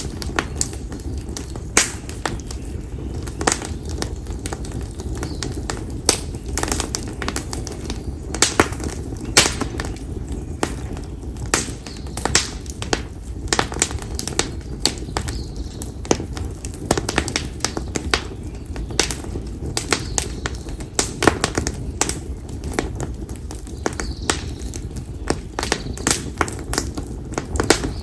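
Bonfire of split konara oak firewood burning, crackling with frequent irregular sharp pops over a steady low rumble of the flames.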